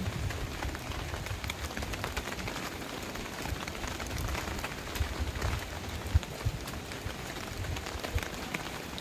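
Steady rain falling on a surface, with a constant hiss dotted with many small drop ticks and irregular low thuds, and one sharper knock about six seconds in.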